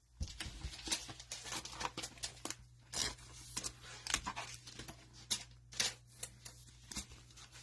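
Cellophane wrapper of a trading-card pack crinkling and tearing open, a steady run of irregular crackles and rustles as the pack and cards are handled.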